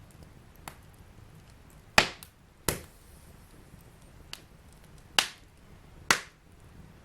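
Fireplace fire burning with a faint low rush and scattered sharp crackling pops, four of them loud and a couple of fainter ticks between.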